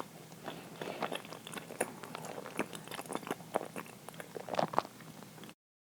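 A person chewing uiro, a soft, sticky sweet rice jelly, close to the microphone: a run of small wet mouth clicks and smacks. The sound cuts off suddenly near the end.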